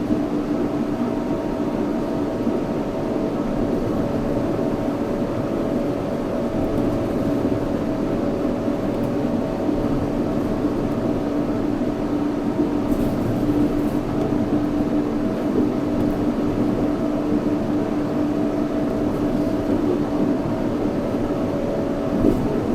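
Yurikamome 7300-series rubber-tyred automated guideway train running at a steady speed, heard from inside the car. There is a constant rumble of the tyres on the guideway, with a steady hum held at one pitch.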